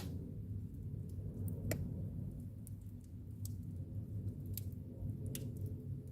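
Wood fire burning in a fireplace: a low steady rumble of flame with sharp crackles and pops every second or so.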